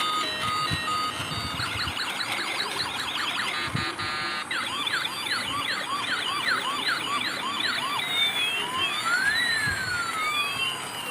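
Police siren cycling through its tones: a short stepped tune, then a rapid up-and-down yelp with a brief very fast warble in the middle, changing about three-quarters of the way in to slow rising and falling wails, two of which cross each other.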